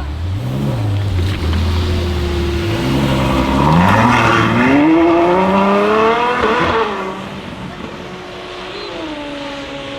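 A sports car's engine pulling away hard: after a few seconds of low revs the pitch climbs steeply, dips briefly about five seconds in, climbs again and drops off near seven seconds. A steadier engine note remains near the end.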